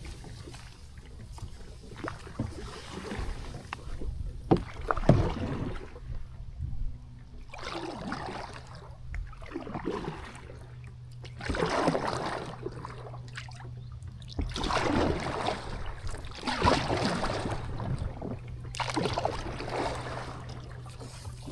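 Kayak paddle strokes: the blade dips and pulls through the water with a splashing swish every couple of seconds, with two sharp knocks about five seconds in.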